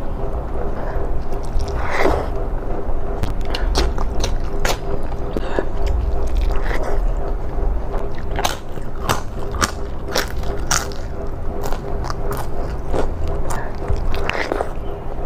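Close-miked mouth sounds of eating rice and kidney bean curry by hand: wet chewing and smacking with many sharp clicks, and the crunch of papad being bitten partway through. A steady low hum runs underneath.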